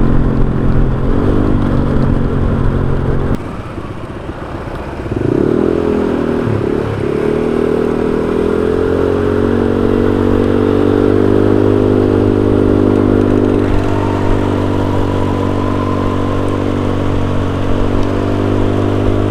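Honda Vario 125 scooter's single-cylinder engine through an aftermarket racing exhaust while riding. The throttle comes off about three and a half seconds in and the sound drops, then the engine picks back up with a rising pitch and settles into a steady cruise.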